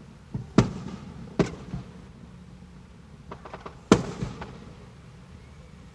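Fireworks going off: a sharp bang about half a second in, another about a second and a half in, then a quick cluster of small crackling pops leading into the loudest bang near four seconds, followed by a weaker one.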